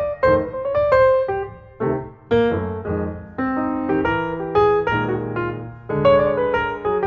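Background piano music: a solo piano with struck notes and chords, each note fading after it is played.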